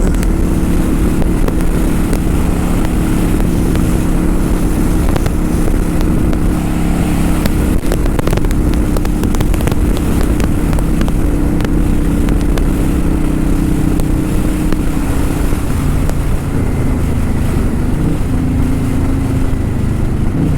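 Kawasaki Vulcan 900 Custom's V-twin engine running steadily while the motorcycle is ridden, with wind rushing over the microphone; the engine pitch shifts slightly in the last few seconds.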